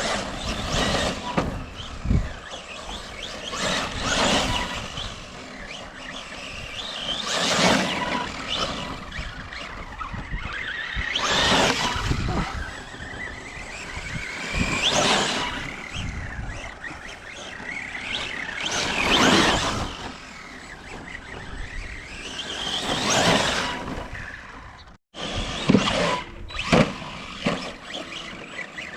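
Electric RC trucks being driven around, their motors whining and rising and falling in pitch as they speed up, slow and pass, swelling about every four seconds. A brief cut about 25 seconds in is followed by a few sharp knocks.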